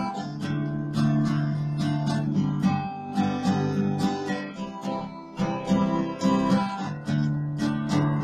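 Acoustic guitar strummed in chords, an instrumental break between sung verses of a folk song.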